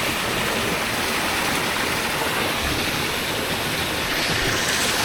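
Steady rain falling, an even rushing hiss without a break.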